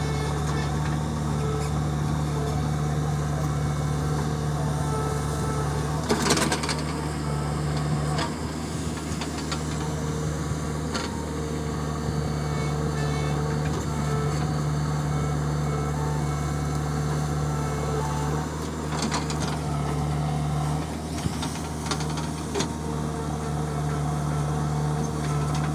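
Diesel engine of heavy earthmoving or farm machinery running steadily at a low, even speed. A short, loud burst of noise cuts across it about six seconds in, with fainter ones near the end.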